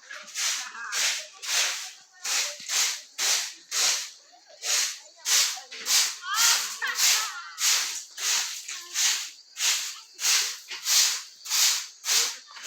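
A broom sweeping a floor: repeated short brushing swishes, about two strokes a second, in a steady rhythm.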